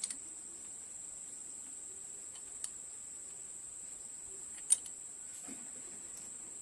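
A steady high-pitched whine, with a few short sharp clicks: one at the start, a faint one under three seconds in, and the loudest just under five seconds in.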